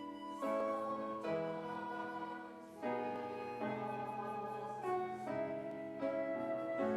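Slow instrumental keyboard music: held chords that change about once a second.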